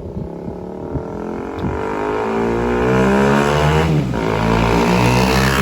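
BMW G 310 GS single-cylinder engine through a Leo Vince LV One Evo full exhaust, accelerating: uneven low-rev pulses at first, then a steady climb in pitch and loudness, with a short dip about four seconds in at a gear change before it climbs again.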